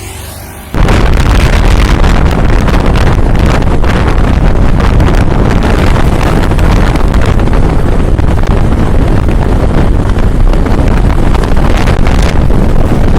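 Loud wind buffeting the microphone over a heavy truck's engine and road noise. It cuts in abruptly under a second in and then holds steady.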